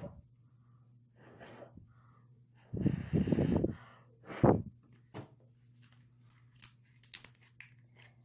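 Breathy puffs of air blown at a thin stretched sheet of clear slime, the loudest about three and four and a half seconds in. These are followed by a run of small sticky clicks and pops as the slime is squished between the hands.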